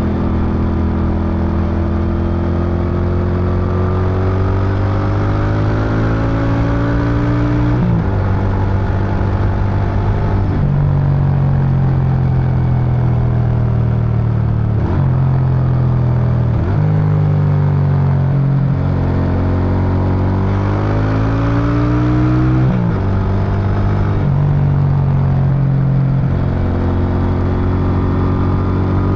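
Suzuki Intruder VS800 V-twin exhaust under riding: the engine note climbs as it accelerates and drops abruptly at each of several gear changes.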